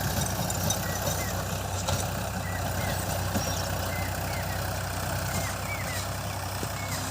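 Tractor engine running steadily, with short high chirps recurring over it.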